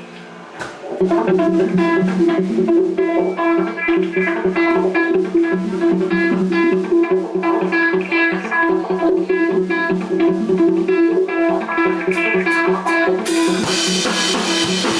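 Live rock band starting a song: an electric guitar picks a repeating figure of ringing notes, and the drum kit comes in with cymbals near the end.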